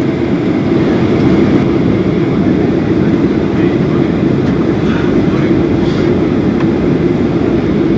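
Steady low rumble inside the passenger cabin of a Boeing 737-800, its two CFM56-7B engines running.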